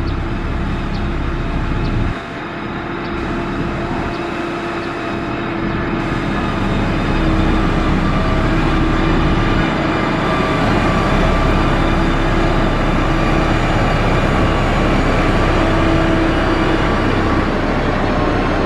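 Heavy construction machine's diesel engine running steadily under work, with a steady droning tone over engine noise. It dips briefly about two seconds in and gets a little louder from about seven seconds on.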